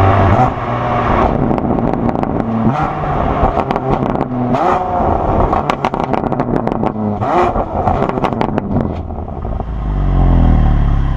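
BMW M4 Competition's twin-turbo S55 straight-six through a non-resonated equal-length midpipe, held at high revs and then lifted off, with exhaust pops and crackles on the overrun for several seconds. Near the end the engine pulls again with a rising note.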